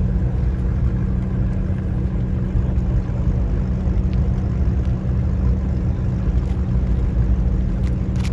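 Car engine idling steadily, with a few faint clicks near the end.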